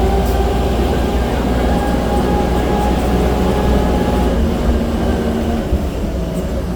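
Steady engine drone and rumble of a moving park tram, heard from on board, with a few held humming tones over the low rumble.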